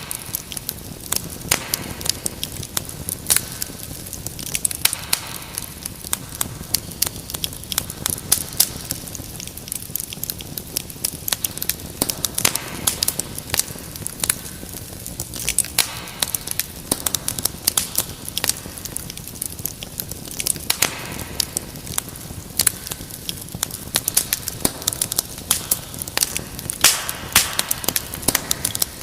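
Wood fire crackling in a fireplace: a constant stream of irregular pops and snaps over a steady low hiss of burning.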